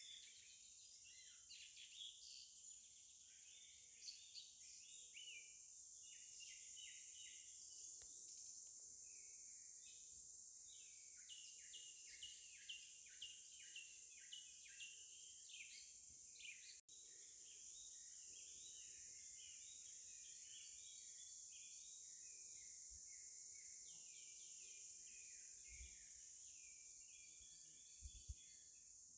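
Faint outdoor ambience of many small birds chirping in quick, overlapping calls over a steady high hiss, with a brief cut-out about two-thirds of the way through.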